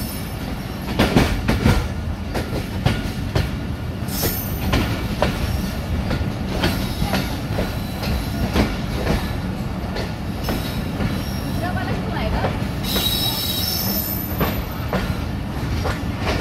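Passenger train coaches rolling slowly into a station, heard from on board: a steady rumble with irregular knocks of the wheels over rail joints. High metallic wheel squeals come twice, about four seconds in and again around thirteen seconds, as the train slows to stop.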